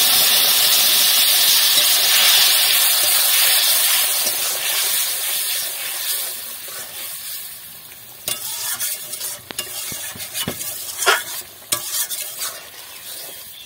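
Ridge gourd curry with fish hissing loudly as it hits hot oil tempered with whole spices in a metal kadai, the sizzle dying down over the first several seconds. From about eight seconds in, a metal spatula stirs and scrapes against the pan with a few sharp clinks.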